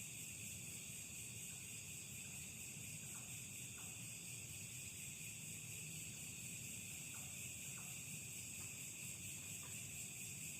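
Steady chorus of night insects such as crickets, a continuous high trilling, with faint short chirps now and then.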